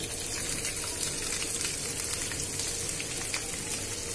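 Chopped ginger and cashews frying in hot ghee and oil for a tempering, a steady sizzle thick with fine crackles.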